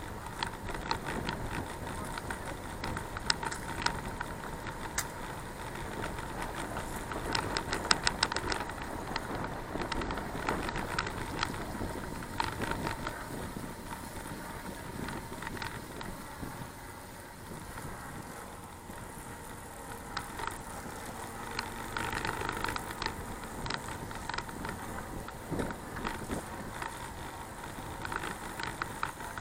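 Bicycle being ridden: road rumble and rattles with frequent sharp clicks, over a faint steady whine.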